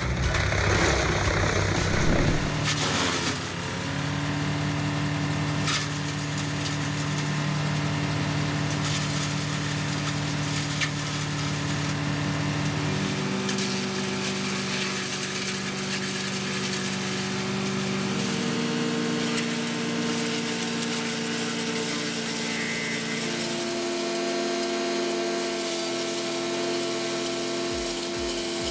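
Wood chipper engine running under load as it chips wood, noisy for the first few seconds, then a steady hum that steps up in pitch three times.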